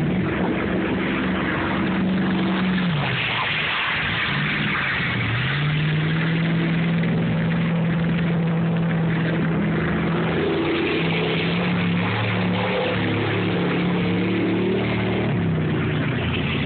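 Pickup truck engine working hard as the truck pushes through deep water, its pitch dropping and then climbing back about three to five seconds in, then holding steady.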